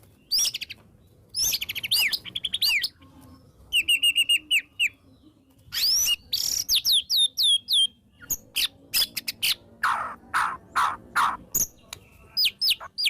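White-rumped shama singing a loud, varied song of clear whistles and sweeping notes, with a quick run of repeated notes about four seconds in and a few harsh, rasping notes near the end.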